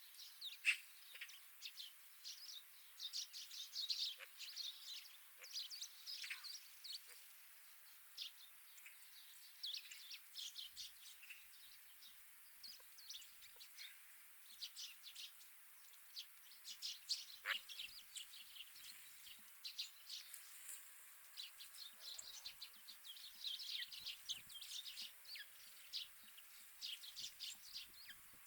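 Wild winter birds chirping and twittering, a steady stream of short, high calls with a few louder single notes.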